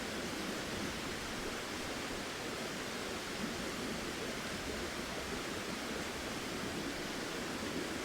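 Steady rushing of a flowing river, an even wash of water noise that does not change.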